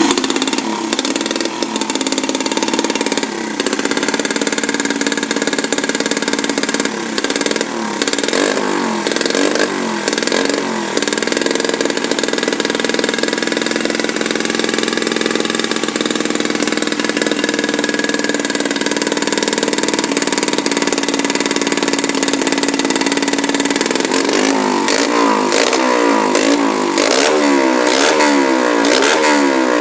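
Underbone motorcycle engine running through an aftermarket racing exhaust made of thin galvanised plate, idling steadily, blipped a few times about eight to eleven seconds in, then revved in quick repeated blips from about twenty-four seconds on.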